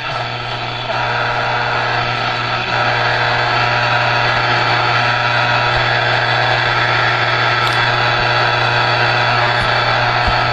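A 1960s Dodge truck AM radio hissing with steady static, with a low hum and faint steady whistle tones under it, and no station coming through clearly. The owner can't tell whether the static comes from the radio itself or from the lack of local AM stations.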